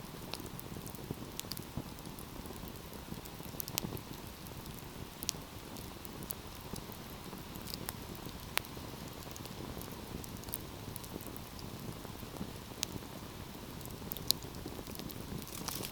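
Wood fire burning, a steady low rush of flames with irregular sharp crackles and pops from the burning logs, a few louder snaps scattered through.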